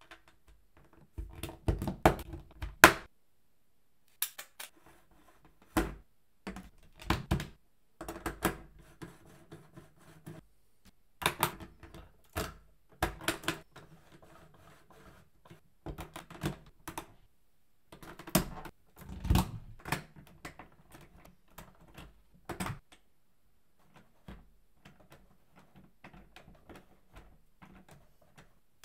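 Hard plastic LEGO Technic parts clicking and rattling as they are handled, in irregular bursts of quick clicks and knocks separated by short pauses.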